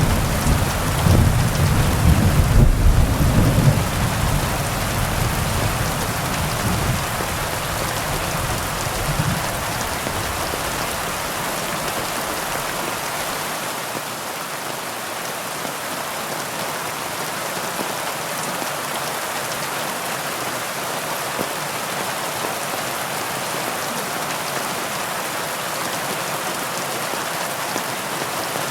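Heavy rain falling steadily. A low rumble of thunder sounds in the first few seconds and dies away by about ten seconds in.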